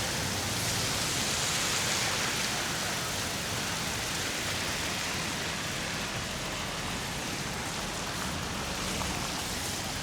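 Steady hiss of bicycle tyres rolling over a wet, slushy street, with no breaks or distinct knocks.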